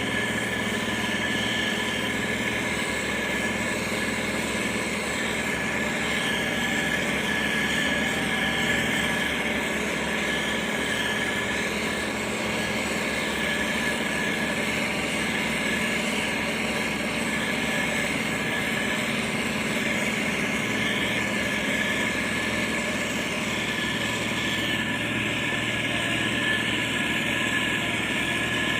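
Diesel engine of heavy road-construction machinery, a motor grader or road roller, running steadily with no pauses or sharp changes.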